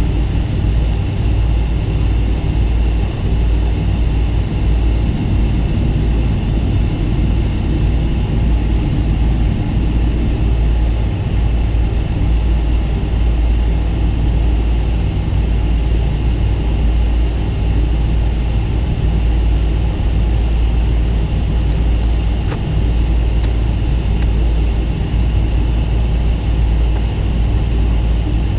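Steady cabin noise inside a Boeing 777-200 airliner: a constant deep rumble of the engines and airflow, heard from a window seat.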